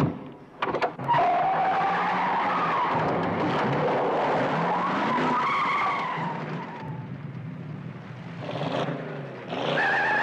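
A car's tyres squealing for several seconds as it pulls away hard, the engine running under it, with a second, higher squeal near the end. A couple of sharp knocks come in the first second.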